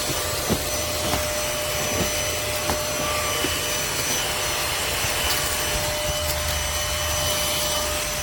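Trucozie cordless stick vacuum running steadily, its motor giving a constant whine over a rushing hiss as it is pushed across the floor, with a few sharp ticks along the way.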